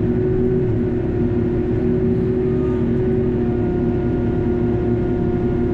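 TYM T574 hydrostatic diesel tractor working steadily under load: engine running with a constant whine from the hydraulic pumps, which run all the time on this tractor.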